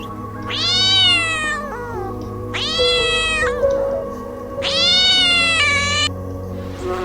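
A domestic cat meowing three times, each meow a long drawn-out call of about a second, the third one longest, over background music.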